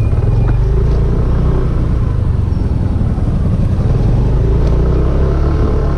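Wind rumbling on the bare microphone of a helmet-mounted GoPro Hero 5 while riding a Yamaha Aerox 155 scooter, with its single-cylinder engine running underneath. It is a loud, steady, low rumble.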